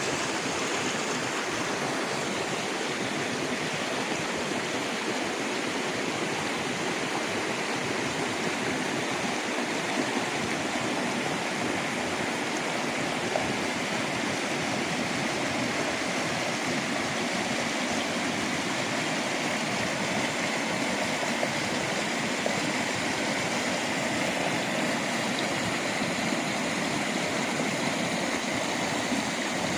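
A mountain stream rushing through a gorge: a steady, unbroken rush of water.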